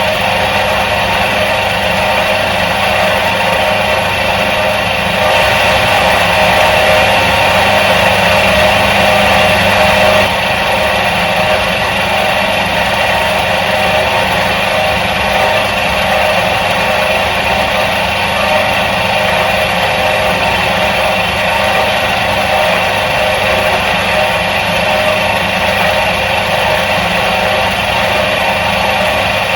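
Electric motor of a 1977 Soviet washing machine running steadily, a continuous hum and whirr that swells slightly about five seconds in and settles again around ten seconds.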